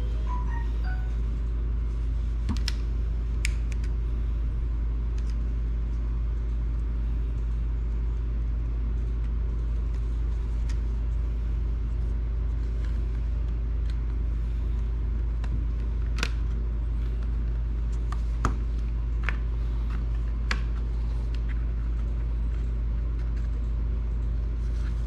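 A steady low background hum, with scattered sharp clicks of a small screwdriver and tiny screws against the Nintendo Switch's plastic shell as it is taken apart.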